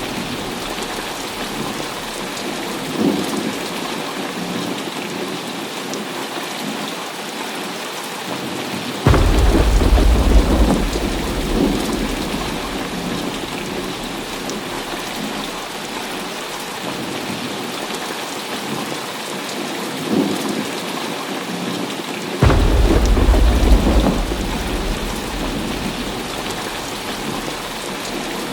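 Steady heavy rain falling, with thunder: two loud deep claps come suddenly, about nine seconds in and again near the end of the second third, each rumbling on for a few seconds before fading back into the rain.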